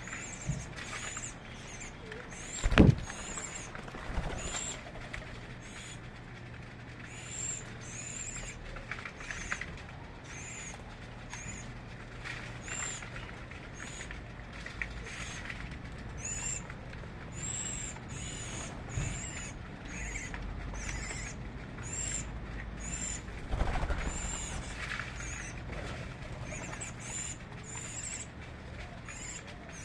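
Birds calling: a steady series of short, very high chirps, a little over one a second, with one sharp knock about three seconds in.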